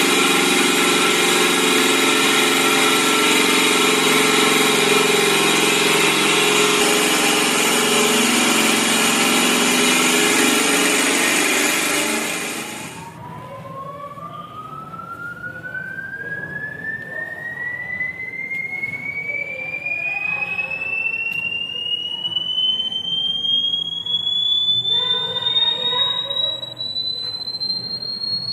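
A homemade solar-powered rat and bird repeller in operation. For about the first thirteen seconds it gives a loud, harsh, dense noise. That noise then cuts out, and a single high tone takes over, sweeping slowly and steadily upward in pitch.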